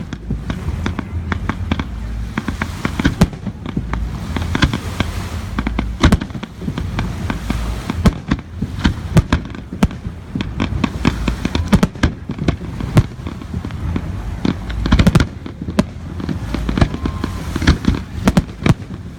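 Fireworks display going off in a steady barrage: many sharp bangs and cracks of varying loudness over a deep rumble, with a dense cluster of heavy bursts about three-quarters of the way through.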